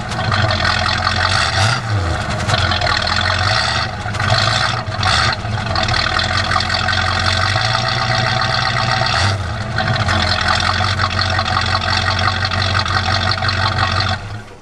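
Rebuilt Chevrolet 327 small-block V8 of a 1966 Chevy half-ton pickup running steadily, with a few brief changes in its note about two, four to five, and nine and a half seconds in. The sound stops abruptly just before the end.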